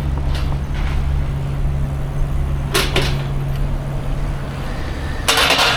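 Steady low rumble of a rental bicycle ride, with wind and road noise on the microphone. A brief hiss comes about three seconds in, and a louder, harsher hiss of about half a second comes near the end.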